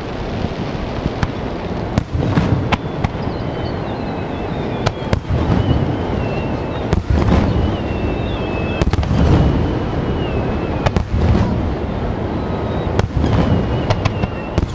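Fireworks display: repeated sharp bangs and crackles over a continuous low rumble of bursting shells, with long, slowly falling whistling tones.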